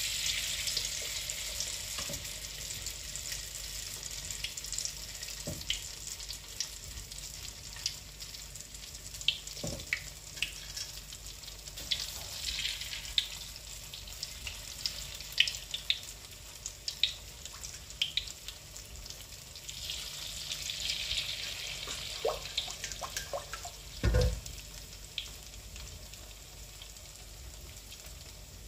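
Batter-coated tempeh slices deep-frying in hot oil in a wok: a steady sizzle with scattered crackles and pops, swelling a few times as more slices go into the oil. One dull knock late on.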